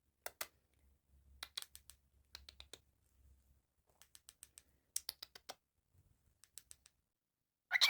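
Irregular clusters of light, sharp clicks and taps. A short, loud call from a cockatiel starts right at the end.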